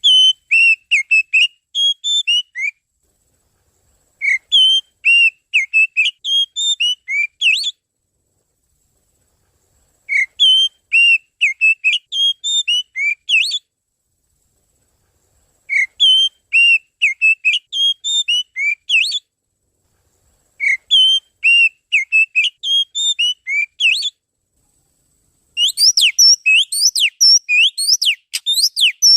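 Oriental magpie-robin song used as a lure call: phrases of clear whistled notes about three seconds long, repeated five times with short silent gaps. Near the end comes a faster, denser run of sharp rising and falling notes.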